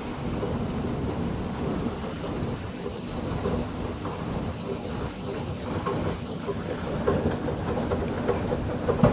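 Long station escalator running on a deep descent: a steady mechanical rumble with a faint hum and light rattling clatter, and a sharper click near the end.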